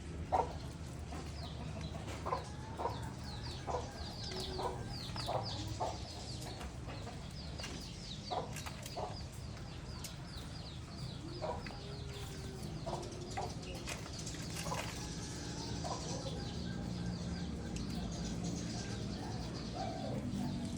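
A flock of birds calling at feeding time: short clucking calls scattered throughout, with rapid runs of high, thin chirps over a steady low hum.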